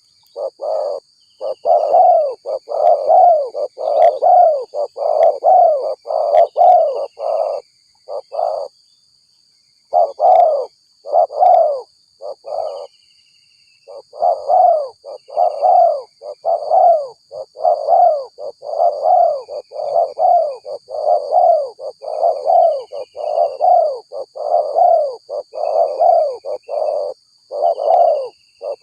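Spotted dove (tekukur) cooing over and over, about one and a half coos a second, with two short breaks. It is a fierce-sounding lure call used to draw in wild doves.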